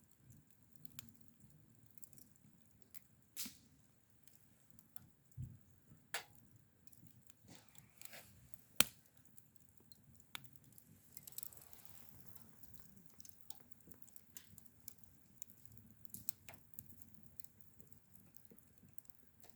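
Faint, irregular clicks and pops at an uneven pace, a few louder ones standing out, the loudest nearly halfway through, over a faint low rumble.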